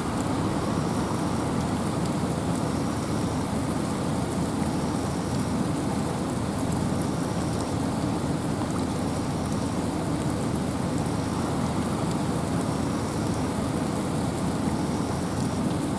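Steady rain and wind in a forest: a dense, even hiss of rainfall, heaviest in the low range, with no break or change.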